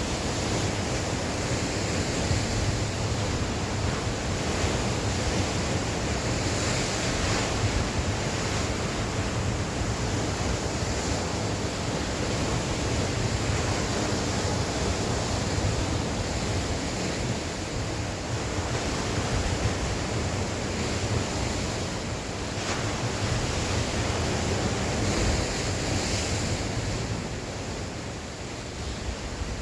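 Sea waves breaking and washing on the shore in a strong wind, a steady dense rush with wind buffeting the microphone; it eases a little near the end.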